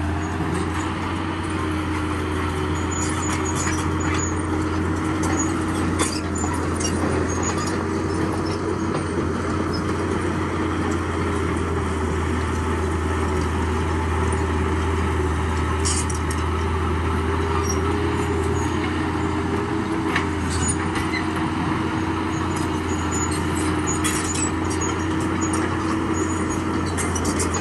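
A heavy diesel construction machine runs steadily: a constant low engine drone with a held hum, broken by scattered sharp clanks and clicks.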